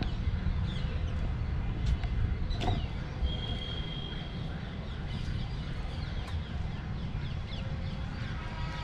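Outdoor birds calling with many short, quick, falling chirps and one brief held whistle, over a steady low rumble.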